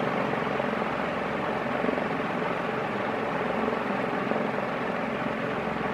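36-inch Gulf Coast (Commander) industrial ceiling fan running on the second of its five speeds: a steady rush of moving air with a fast, even flutter from the blades.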